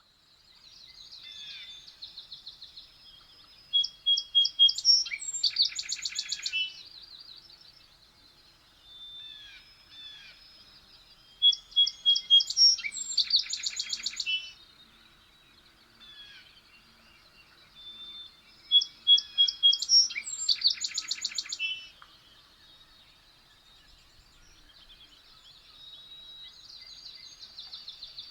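A songbird singing, repeating a loud, fast trilled phrase about every seven seconds, with softer twittering between the phrases.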